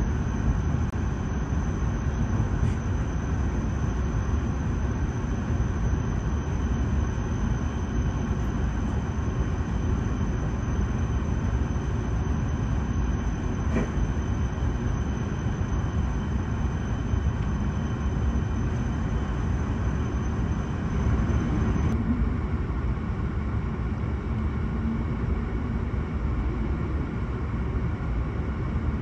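Interior running noise of an E7 series Hokuriku Shinkansen train moving at low speed through stations: a steady low rumble, with a faint high whine that cuts off suddenly about three-quarters of the way through.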